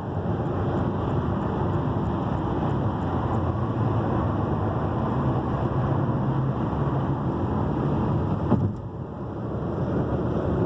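Steady road and engine noise of a car travelling at freeway speed, dipping briefly about nine seconds in.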